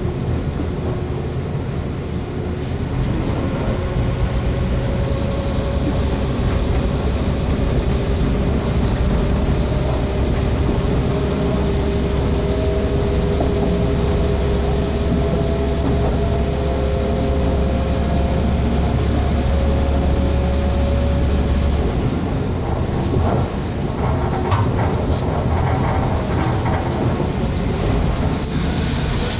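Train running along the line, heard from inside a carriage: a steady rumble with a strong low hum and a faint tone that slowly rises in pitch. About two-thirds of the way through, the low hum drops away and a few clicks and knocks follow.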